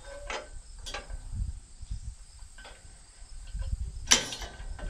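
Handling and work noise: a few short knocks and scrapes over a low rumble, the loudest a brief rattle about four seconds in. Crickets chirp faintly throughout.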